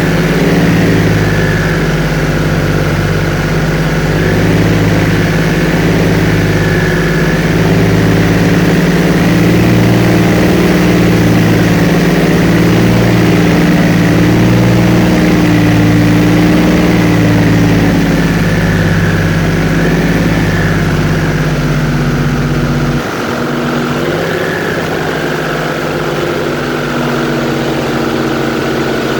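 Airboat engine and propeller running steadily, with a regular pulsing beat in the low drone. About 23 seconds in, the deep rumble drops away suddenly and the engine note shifts.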